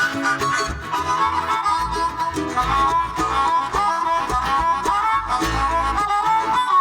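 Live acoustic string band playing an instrumental break: a sustained, bending lead melody over plucked and strummed strings.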